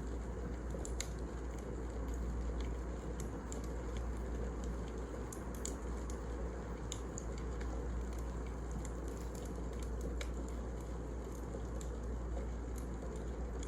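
Wood fire burning, a steady low rumble with irregular sharp crackles and pops of the burning logs.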